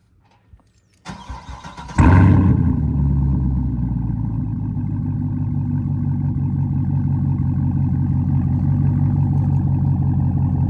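2021 Chevrolet Camaro SS's 6.2-litre LT1 V8 warm-started through an AWE Track Edition axle-back exhaust, heard about a foot behind the tailpipes: about a second of starter cranking, then the engine catches with a loud flare about two seconds in and settles into a steady idle.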